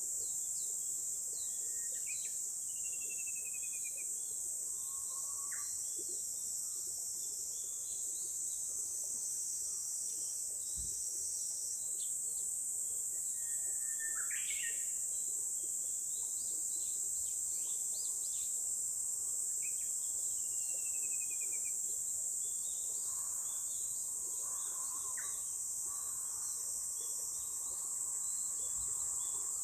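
Japanese bush warbler singing: several phrases of a held whistled note that breaks into a quick rising flourish, and a couple of short descending runs of notes. A steady high-pitched insect drone runs underneath, with scattered short chirps of other small birds.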